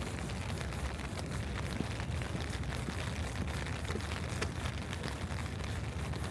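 Rain falling, with many small drop ticks over a steady low rumble.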